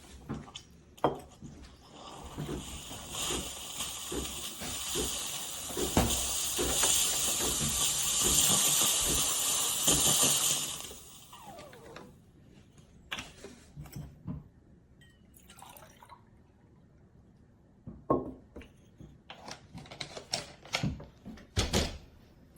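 Running water, a steady rush for about nine seconds that stops suddenly, followed by a few light knocks and clinks.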